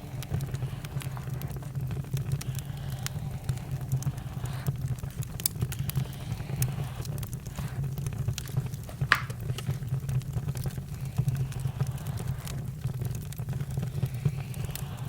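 Campfire crackling: irregular sharp pops over a steady low rumble, with a brief whistle about nine seconds in.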